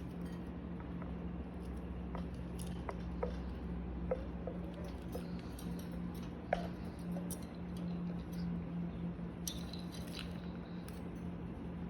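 Pet budgies moving about make scattered light clicks and taps, with a few faint high chirps near the end, over a steady low hum.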